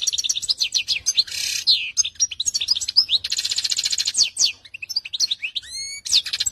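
Domestic canary singing: fast trills of rapidly repeated notes and quick rising and falling whistles, with a long rolled trill about three seconds in.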